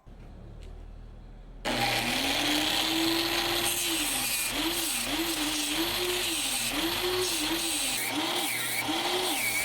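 Small power tool motor switching on about two seconds in and spinning up, then running with its pitch dipping and recovering again and again as the work is pressed against it.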